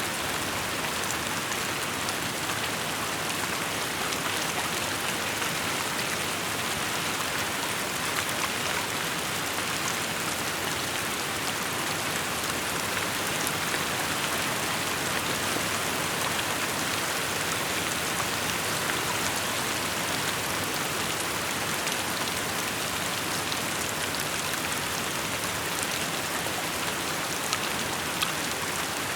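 Steady rain falling, an even hiss of drops hitting surfaces with scattered individual drop ticks.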